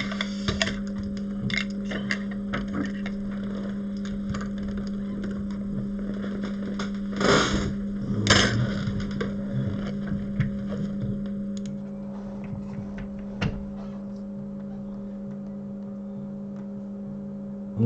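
Steady electrical hum with scattered small clicks, and two short, louder noise bursts about seven and eight and a half seconds in.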